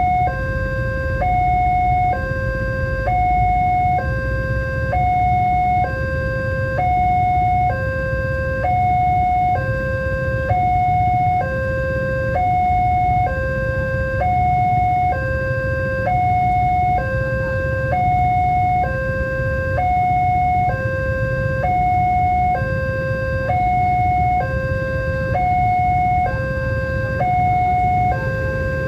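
Railway level-crossing warning alarm sounding a steady two-tone alternating signal, a higher and a lower tone each about half a second long, repeating without pause, over a steady low rumble. The alarm signals that a train is approaching and the barriers are down.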